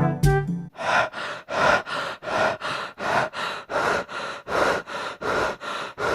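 Rapid, heavy breathing in short puffs, about two or three a second, like panting, after brass music ends in the first second.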